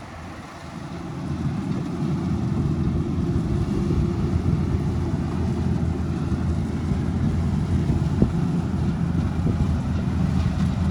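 Kubota DC-105X rice combine harvester running, a steady low engine hum that grows louder about a second in and then holds steady.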